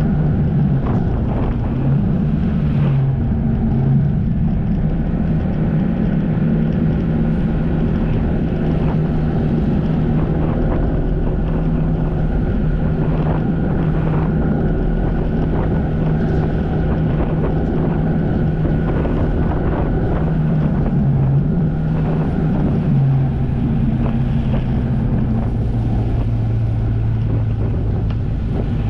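Jet ski engine running under way, its note stepping down and up a few times, with wind buffeting the microphone.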